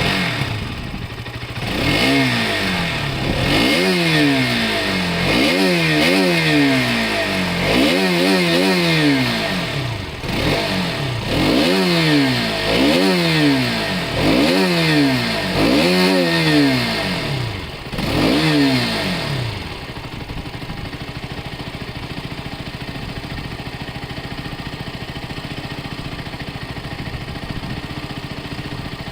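Motorcycle engine just started, revved over and over in quick blips, each rising and falling in pitch about every second and a half, then left to idle steadily from about two-thirds of the way through.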